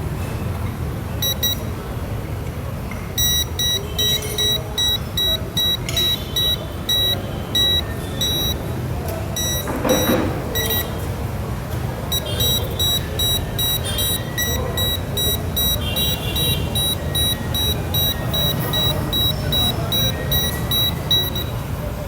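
Electronic refrigerant leak detector beeping in a rapid even rhythm, about two to three high beeps a second, with a break near the middle. A car engine runs with a low rumble underneath.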